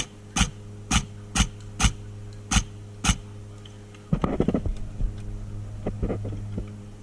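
A run of sharp clicks, about two a second for the first three seconds, then a burst of rustling and clatter about four seconds in, over a steady low electrical hum.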